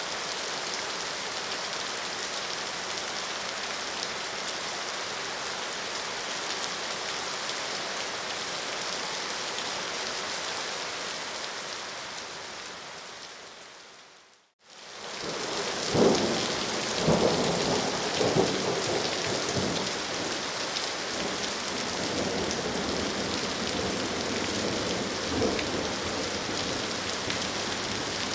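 Steady rain that fades out about halfway through. Rain fades back in with thunder, several rumbles and cracks in the first few seconds and another later on.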